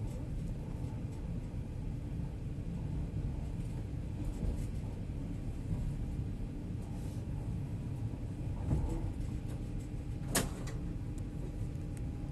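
Passenger train carriage running along the track, heard from inside the coach as a steady low rumble with a few light clicks. There is a dull knock about nine seconds in and a sharp click a second and a half later.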